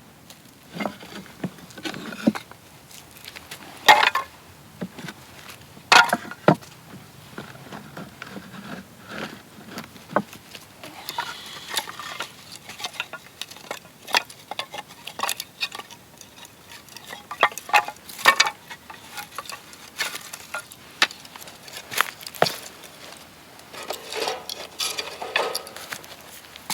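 Metal parts of a folding fire pit being handled and fitted together: irregular clinks and knocks, some sharper than others.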